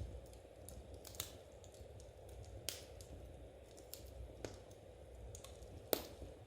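A handful of sharp, irregular clicks, about five louder ones with fainter ticks between, over a low steady background hum.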